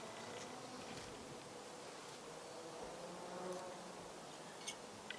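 A flying insect buzzing near the microphone, its faint pitch wavering slowly up and down, with a couple of faint clicks near the end.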